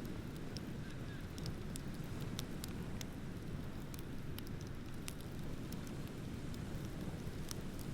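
Wood bonfire crackling: sharp, irregular pops and snaps, several a second, over a steady low rumble.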